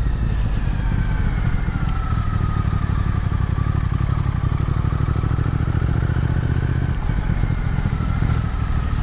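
Motorcycle engine running steadily while riding along at speed, with a faint wavering whine above the engine note; the engine note eases briefly about seven seconds in.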